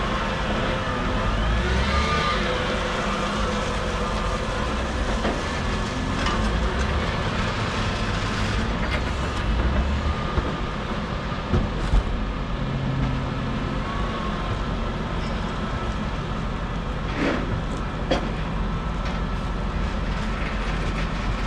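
Steady engine and vehicle noise of a busy yard, with a low rumble and a few sharp clanks about halfway through and again near the three-quarter mark.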